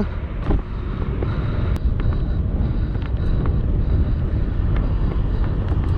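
Wind buffeting the microphone as a mountain bike is ridden, a steady low rumble with a few faint clicks.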